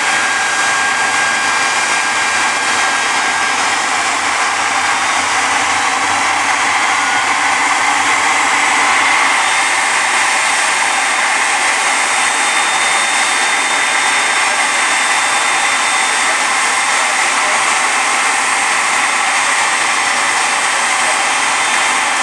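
Super Shockwave jet truck's jet engines running steadily: a loud, even roar with faint high whining tones.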